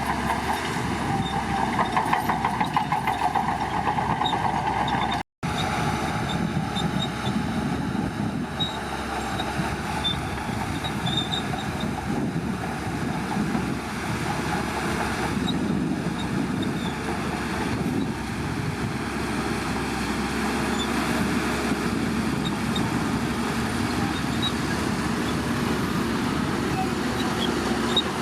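Crawler bulldozer's diesel engine running steadily with the metallic clanking of its tracks, pulsing rhythmically for the first few seconds. The sound cuts out for an instant about five seconds in, then carries on.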